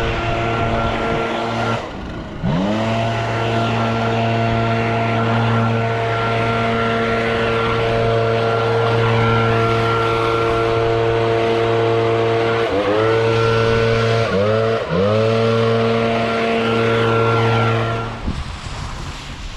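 Small two-stroke lawn-equipment engine held at high throttle, with the throttle let off and squeezed back a few times so the pitch dips and climbs back up; near the end it drops away.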